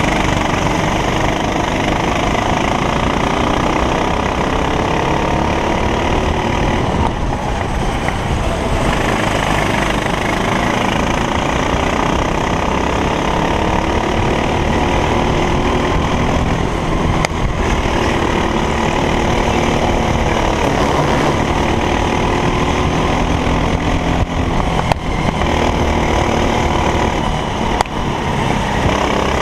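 A racing kart's engine at full racing load, its pitch climbing steadily and then dropping back again and again as the kart accelerates down the straights and slows for corners. A dense rushing noise runs underneath.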